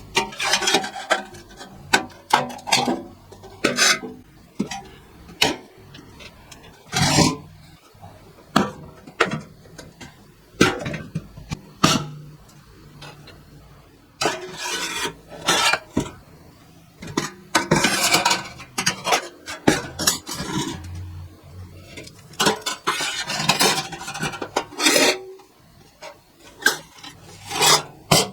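Scraping and rubbing strokes on metal, irregular and of varying length, with light clatter in between.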